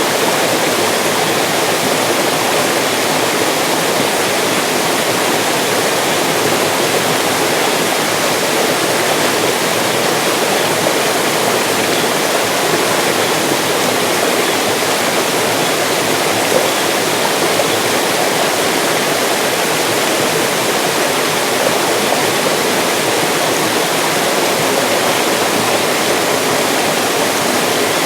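Mountain stream rushing and splashing over rocks, a steady full hiss of running water.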